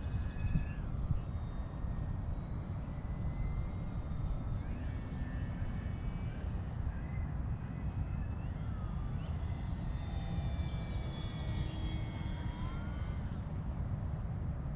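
Electric brushless motor and propeller of a Volantex Sabre 920 R/C model airplane in flight, a high whine rising and falling as the throttle changes, fading out near the end. Steady low rumble of wind on the microphone underneath.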